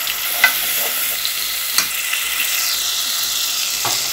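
Garlic paste sizzling in hot oil, a steady hiss with a couple of sharp pops early on. Near the end a wooden spoon starts stirring it in the pot.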